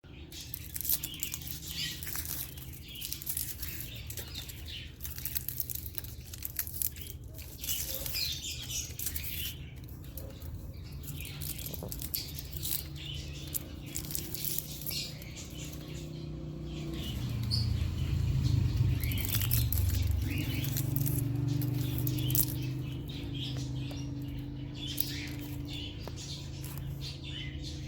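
Small bird rustling and scratching with many short crackles and occasional chirps, over a steady low hum that grows louder a little past the middle.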